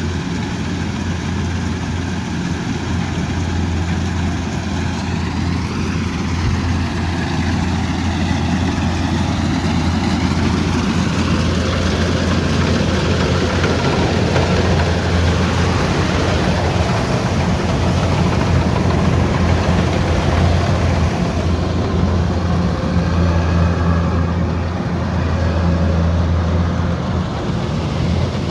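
Combine harvester's diesel engine running steadily with a low hum, with the threshing machinery whirring and shifting in pitch twice as it works.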